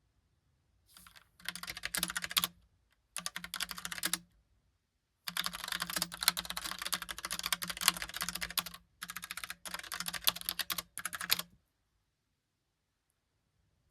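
Typing on a Logitech Pop Keys mechanical keyboard with round, typewriter-style keycaps: runs of rapid keystroke clicks broken by short pauses. The typing stops about two seconds before the end.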